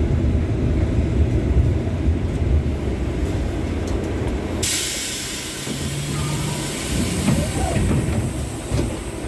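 LVS-86K tram rumbling low as it slows into a stop, then a sudden loud hiss of released air about four and a half seconds in that carries on while the car stands.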